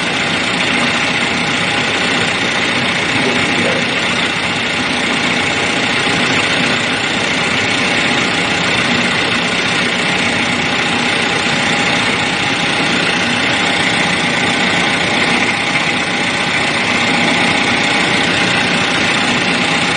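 2013 Chevy Malibu's 2.5-litre four-cylinder engine idling steadily while it warms up.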